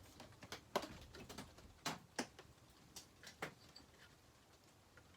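A handful of light, irregular clicks and knocks as chainsaw parts are handled and lined up by hand, with about five sharper taps spread through the first three and a half seconds.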